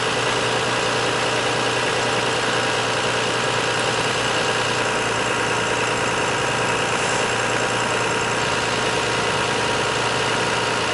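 2001 Toyota Sienna's 3.0-litre V6 idling steadily.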